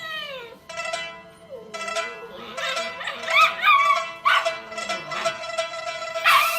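A cat meowing several times in wavering, rising and falling calls over background music.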